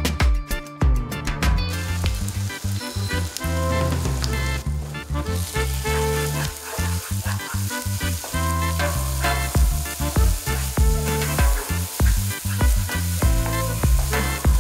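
Spice masala sizzling in hot oil in a non-stick pan as it is stirred and fried until the oil separates, the sizzle starting about two seconds in. Background music with a steady bass line plays throughout.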